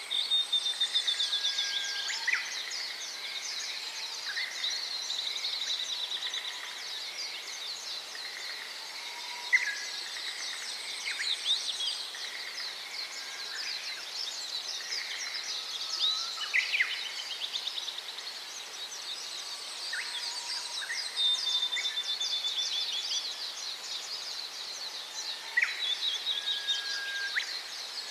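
Dense chorus of many small birds chirping and trilling over one another, with a few sharper rising calls standing out. A thin, steady high buzz comes and goes several times.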